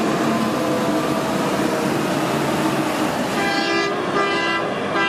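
A steady rushing noise, then from about three and a half seconds in a horn sounding three short toots.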